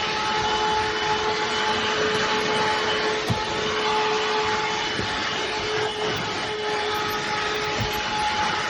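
Cordless handheld vacuum cleaner running steadily: a constant motor whine over the noise of the air being drawn through it, with a few faint ticks.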